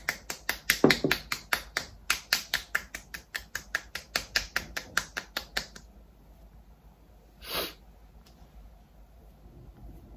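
Rapid, even patting of skin-care ampoule into the face with the hands, about five light slaps a second, stopping about six seconds in. A single short brushing sound follows near the end.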